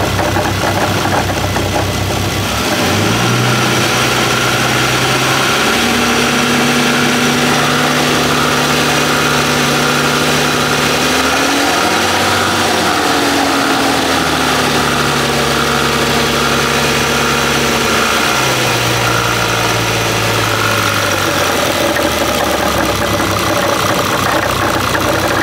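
Bentley W12 engine running with a heavy mechanical rattle from inside the engine. The revs are raised about three seconds in and held, rise briefly higher midway, and ease back toward idle near the end. The rattle comes on once oil pressure builds and is suspected to be in the cylinder head or a main bearing.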